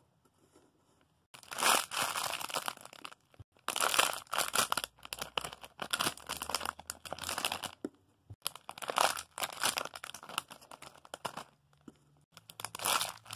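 Crinkling of the plastic bags that squishies are packed in, as they are picked up and handled, in repeated bursts of a second or so with short pauses between.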